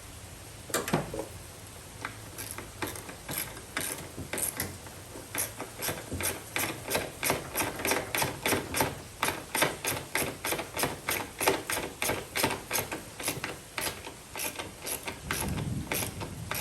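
Hand ratchet clicking in quick, even runs of about three to four clicks a second as screws are driven by hand rather than with an impact driver, so that they don't strip.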